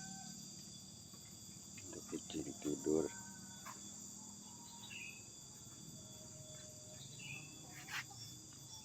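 Steady chorus of night insects such as crickets, a continuous high shrill. About two to three seconds in there is a brief low, voice-like sound, and a few short chirps are scattered through.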